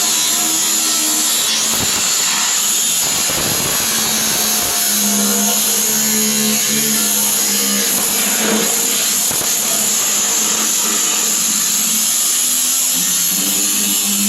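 A power tool running steadily with a strong high hiss, with a few knocks along the way.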